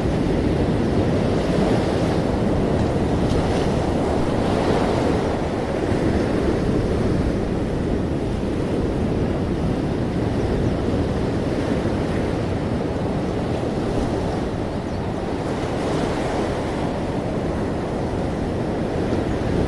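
Ocean waves breaking and washing on a shore, a steady surf sound with gentle swells every few seconds.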